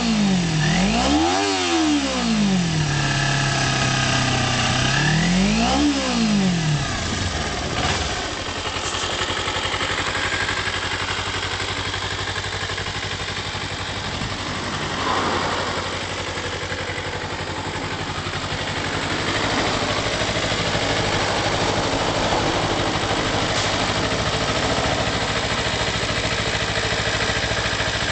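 Kawasaki Ninja 250R's parallel-twin engine revved in quick blips, rising and falling three times over the first six seconds, then settling to a steady idle.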